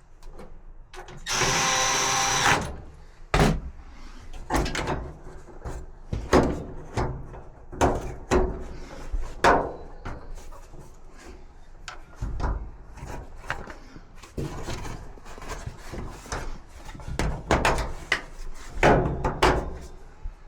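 A cordless drill or driver runs for about two seconds, followed by a string of irregular knocks and clatters as tools and parts are handled.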